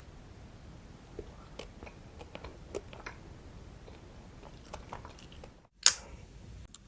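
Close-miked chewing and biting of candy: scattered small crunches and mouth clicks, then one sharp, loud snap near the end.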